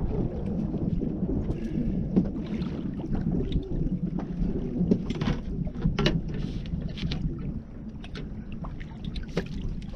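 A boat drifting on open water: a steady rumble of wind on the microphone and water against the hull, with scattered small clicks and knocks.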